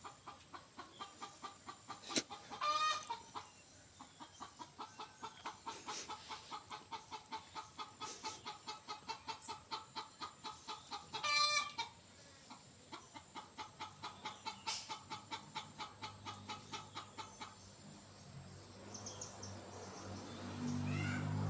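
Bird calls in long runs of rapid pulses, with two louder calls about 3 and 11 seconds in, over a steady high-pitched whine.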